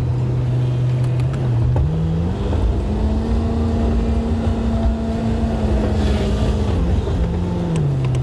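Plow truck's engine running under load, its revs climbing about two seconds in, holding higher for several seconds, then dropping back to a lower steady speed near the end.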